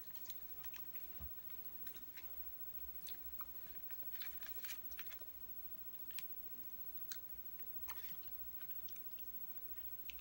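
A person chewing a mouthful of chicken Alfredo with broccoli, with faint, irregular wet mouth clicks and smacks, a few of them bunched together about halfway through.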